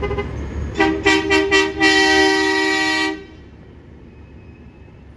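Garbage truck horn honking: four quick toots, then one long blast of a little over a second, a two-tone honk. Low vehicle rumble runs underneath.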